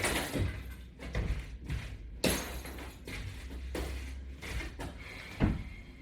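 An exercise mat being moved and laid back on the floor: shuffling and a series of thumps and knocks, with a sharp knock a little over two seconds in and a louder thump near the end.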